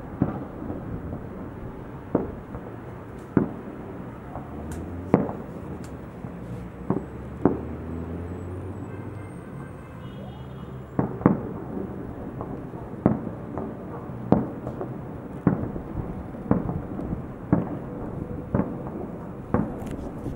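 Fireworks salute: a steady run of loud booms from shells bursting, about one every second or so, each trailing off in a short rumble.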